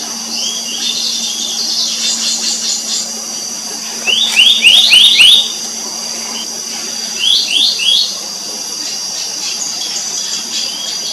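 Black-naped monarch calling: quick runs of short, rising whistled notes, a run of about five a little after four seconds in and three more about three seconds later, over a steady high-pitched background drone.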